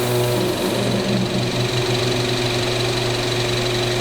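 Transmission fluid exchange machine running with a steady mechanical hum and a faint high whine as it pumps new fluid into the car's automatic transmission near the end of the change.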